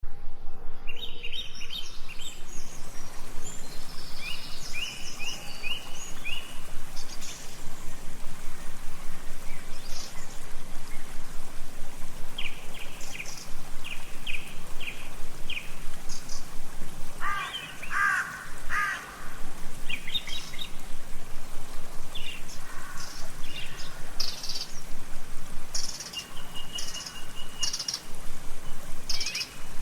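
Songbirds chirping and singing, with many short high calls and quick trills scattered throughout over a steady background hiss.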